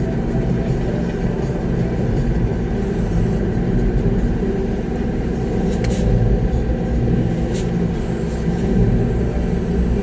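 Concrete mixer truck's diesel engine running steadily, heard from inside the cab, with two faint clicks about halfway through.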